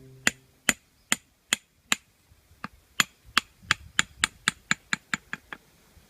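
A series of sharp knocks, about two a second at first, then after a short pause coming faster and faster until they stop near the end.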